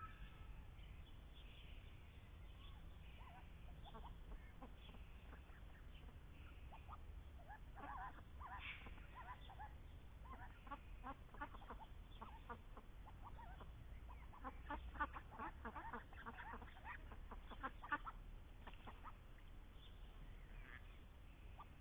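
Indian Runner ducks quacking faintly, with a run of quick short quacks past the middle.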